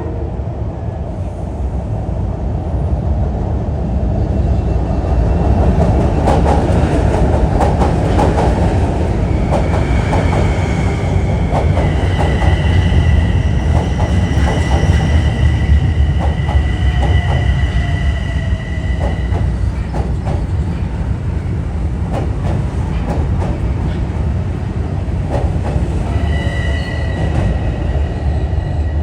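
Commuter train arriving: a steady rumble with clicks of the wheels over rail joints, and a high, steady squeal from about ten seconds in until about nineteen seconds, coming back briefly near the end.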